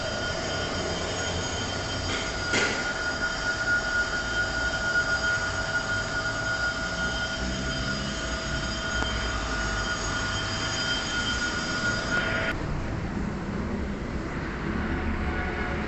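A steady machine whine made of several high tones over a low rumble, with a sharp click a few seconds in. The whine cuts off suddenly about two-thirds of the way through, and only the rumble is left.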